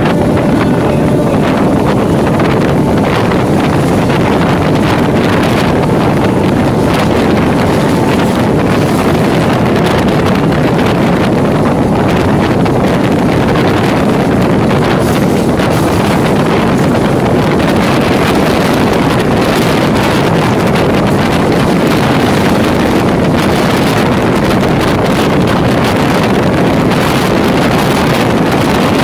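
EMU local train running, heard from on board: steady running noise of the train with wind blowing on the microphone.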